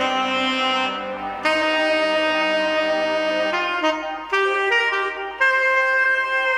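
Saxophone playing a slow jazz ballad melody in long held notes, changing note about every second or two, over a soft backing.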